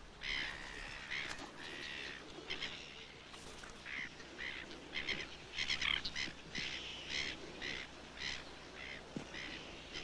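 Birds calling: short honking calls repeated over and over, some overlapping, coming faster around the middle.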